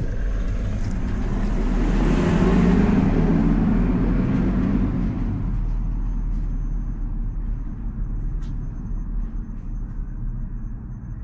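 A car passing by: its noise swells to a peak about two to three seconds in, then fades away, over a steady low rumble.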